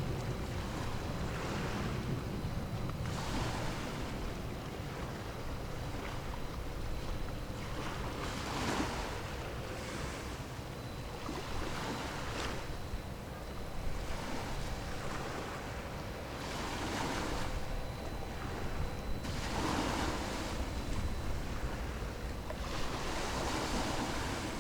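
Small waves washing in over and over, a hissing swell every couple of seconds, over a low wind rumble on the microphone and a faint steady hum.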